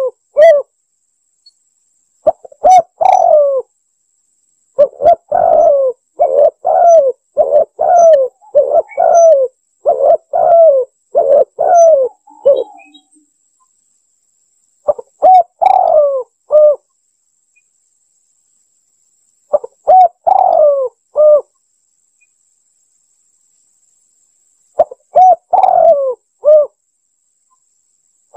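Spotted dove (tekukur) cooing: short phrases of two to four coos separated by silent gaps, with a longer run of repeated coos from about five to twelve seconds in.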